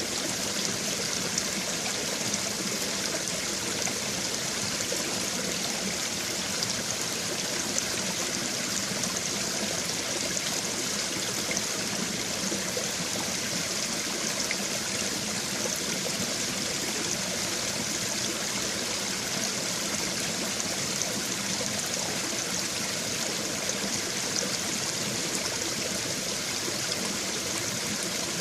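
Babbling brook: shallow stream water running and trickling over stones in an even, continuous rush.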